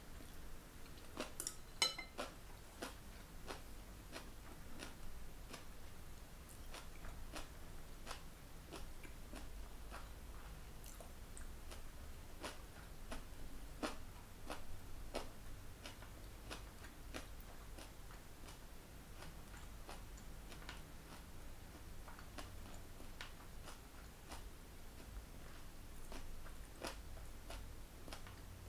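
A person chewing stir-fried bean sprouts and beef brisket, with faint chewing and crunching and irregular small mouth clicks. A cluster of louder clicks comes about two seconds in.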